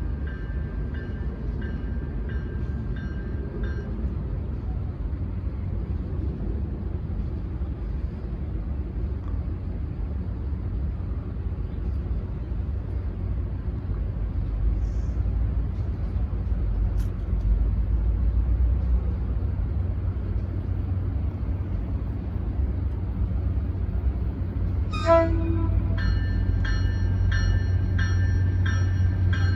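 Train passing with a steady low rumble that grows louder in the second half, and a horn sounding for the first few seconds and again for the last few seconds.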